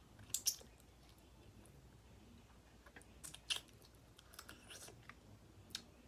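Boiled crawfish shells being cracked and peeled by hand: scattered sharp clicks and crackles, a few at a time, the loudest about half a second in and again about three and a half seconds in.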